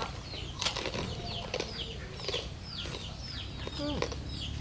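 Birds chirping over and over: short, high, falling chirps about three a second, with a few sharp clicks.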